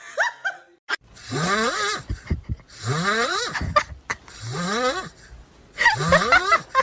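Loud, rasping snoring: four long breaths, about one every second and a half, each rising in pitch.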